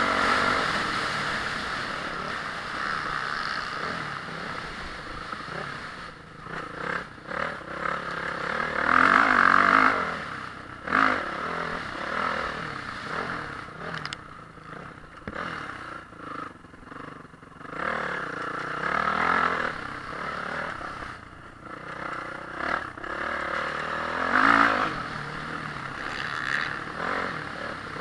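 Motocross motorcycle engine revving hard and easing off again and again as the throttle is opened and chopped, loudest about a third of the way in and again near the end.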